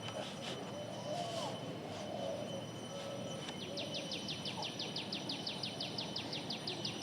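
Steady background noise. About halfway through, a rapid, even trill of short high chirps starts, about eight a second, and keeps going.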